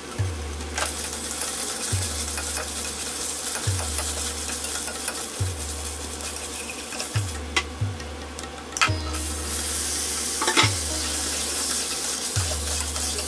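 Sliced onions and ginger-garlic paste sizzling in oil in a stainless steel pressure cooker, stirred with a wooden spatula that scrapes and clicks against the pot. About nine seconds in, raw chicken pieces go into the pot and the sizzle gets louder.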